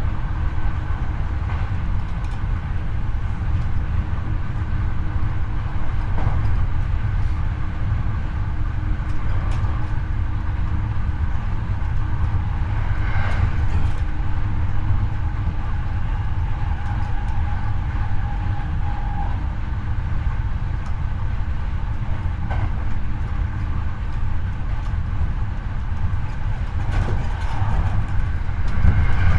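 Hankyu 8300 series commuter train running at speed, heard from the floor above a motored bogie: a steady deep rumble of wheels on rail with a faint steady whine from the traction motors and gearing. A few sharp clicks come through at intervals of several seconds.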